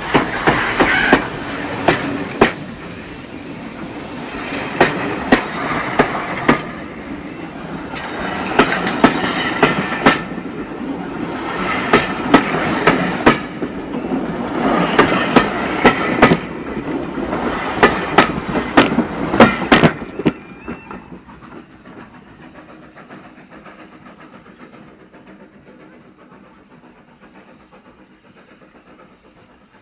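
Passenger carriages behind steam locomotive 90775 rolling past at close range, their wheels clacking over the rail joints in clusters of sharp clicks every few seconds over a steady rumble. About two-thirds of the way through the last coach clears and the sound drops to a faint rumble that fades as the train pulls away.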